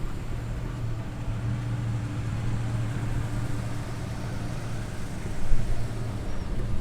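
A car engine idling with a steady low hum, swelling briefly about five and a half seconds in.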